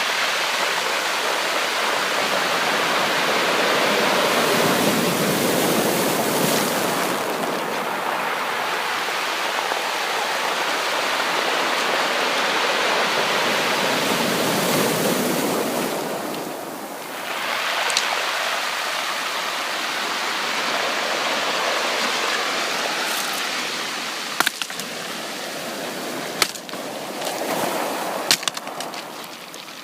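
Sea waves breaking and washing up the shore: a steady rush of surf that swells twice, around 5 and 15 seconds in, drops briefly near 17 seconds, then settles lower. Several sharp clicks sound in the last few seconds.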